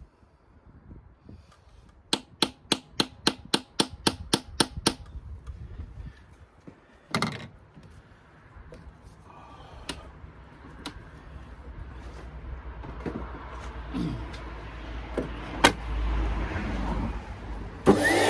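Hammer striking metal, about three quick blows a second for a few seconds, then a few single knocks and clicks. Near the end a motor switches on with a rising whine.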